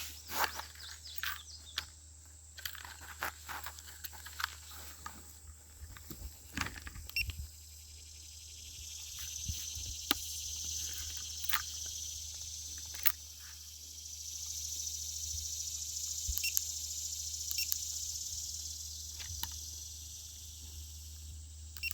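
Clicks and knocks of close handling for the first several seconds, then a high, steady insect chorus that swells, eases and swells again, with a few sharp clicks over it.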